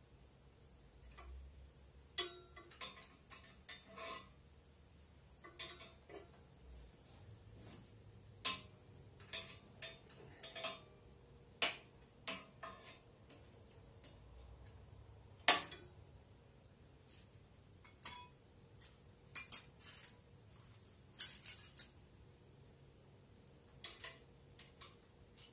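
Irregular metallic clinks and taps of hand tools and loose hardware being handled, some ringing briefly, a few noticeably louder than the rest.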